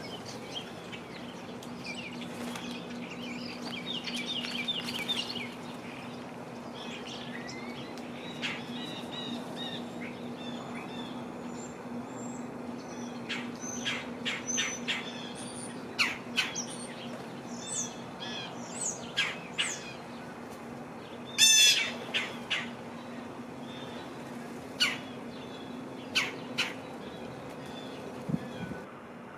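Wild songbirds calling: scattered short high chirps and calls, with one louder quick run of notes about two-thirds of the way through, over a steady low hum.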